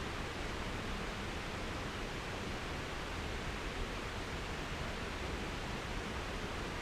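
Steady, even outdoor noise, a hiss-like rush with no distinct events, of the kind made by wind or running water.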